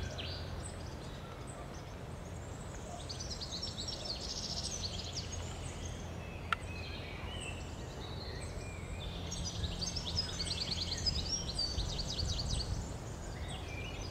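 Songbirds singing in bursts of quick trilled phrases, over a steady low rumble. A single sharp click sounds about six and a half seconds in.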